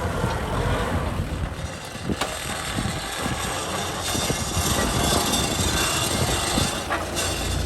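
Kubota M6040 tractor's diesel engine running, its low rumble uneven rather than a steady idle, with a hiss rising in the middle.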